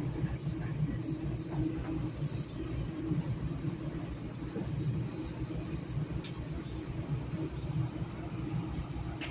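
Interior ride noise of a Metrolink commuter train coach under way: a steady rumble with scattered light clinks and rattles.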